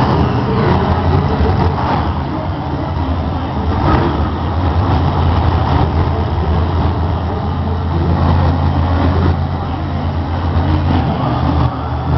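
Monster truck engine running loud with a steady low drone, swelling a little in places.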